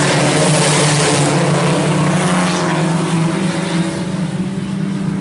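A pack of IMCA Sport Compact race cars running hard on a dirt oval: several four-cylinder engines at high revs blending into one steady drone that eases a little in the second half.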